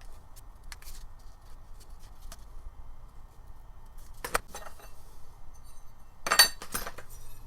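Small hard objects clinking as they are handled and set down: a few light ticks, a sharp clink about four seconds in, and a louder short clatter a little after six seconds.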